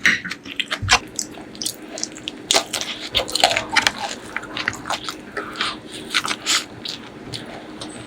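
Close-miked chewing and biting: irregular wet smacks and clicks of a mouth eating curry and rice, several a second.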